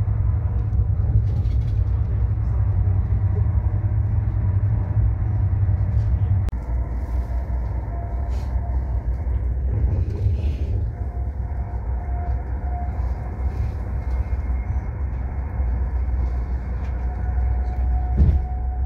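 High-speed train running at speed, heard from inside the carriage as a steady low rumble. The rumble changes about six and a half seconds in, and there is a short louder moment near the end.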